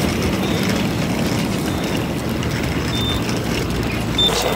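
A train's steady running noise, a rumble and hiss, with a few brief high squeaks.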